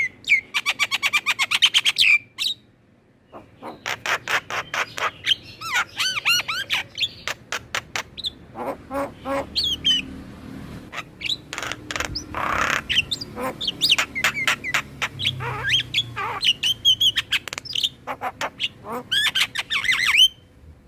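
Javan myna and other starlings singing: a busy chattering song of fast rattling note runs, curved whistles and harsh squawks, coming in bursts with a brief pause about three seconds in.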